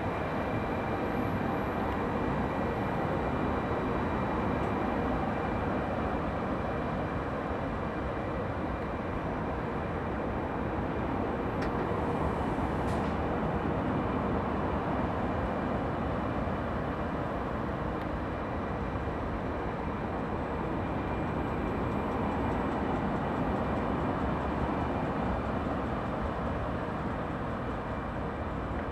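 A regional train of Vivalto double-deck coaches rolling steadily past on the rails, with an even running rumble and a few faint steady high whines over it.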